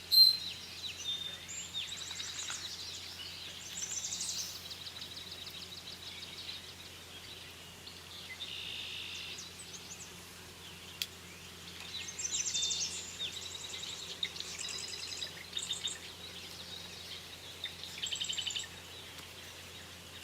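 Several songbirds singing and calling: short chirps and rapid trills come and go throughout, with one loud, sharp call right at the start.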